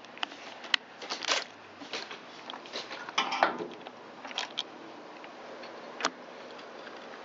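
Workshop handling noises as the plastic upper engine shroud of a Stihl BR600 blower is lifted off and parts are moved about: scattered clicks and knocks, with a short rattle about three and a half seconds in.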